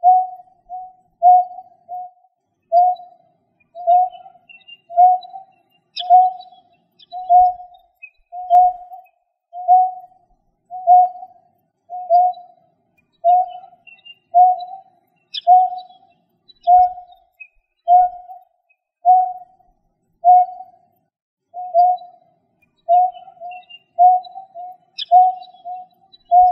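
A bird repeating a short low hooting note about once a second in a steady rhythm, with a few faint high chirps now and then.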